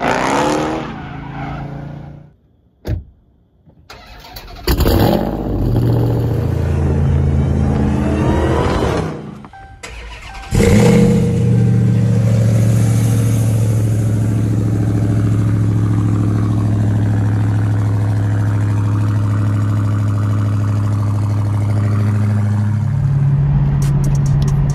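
Dodge V8 muscle-car engine in a string of short clips. The revs fall away, there is a short gap, and the revs climb again from about five seconds in. After a brief drop the engine holds a long steady run at one speed.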